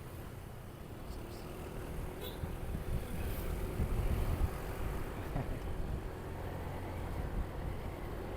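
Motorcycle engine running under way, a steady low rumble mixed with wind buffeting the action camera's microphone; it gets louder about three to four seconds in.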